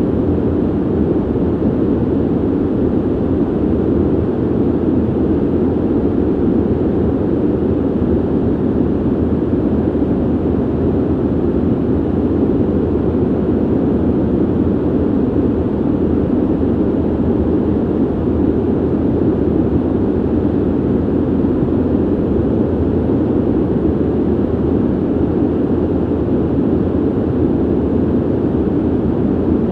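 Steady ventilation noise: an even, muffled rush of air, deep and low, with little hiss.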